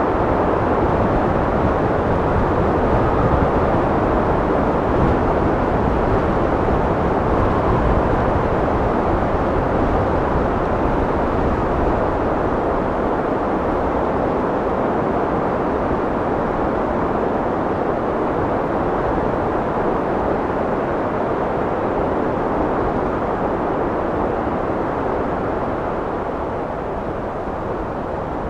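Steady wind blowing, a continuous low, rushing noise with no gusts standing out, easing off slightly near the end.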